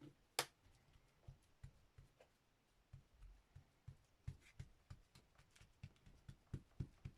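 Faint taps of fingers patting a glued paper cutout down onto a journal page on a desk. There is a sharp click about half a second in, then a run of soft taps that quickens in the second half.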